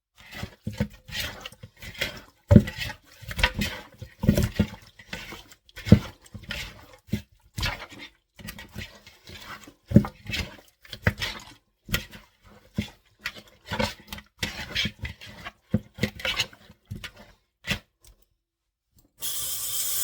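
Kitchen handling noises: a run of irregular knocks, clatters and rubs of dishes and food being handled, with a water tap running briefly near the end.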